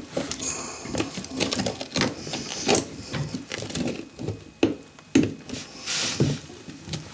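Irregular clicks, knocks and short scrapes of hands working with small hard parts and tools.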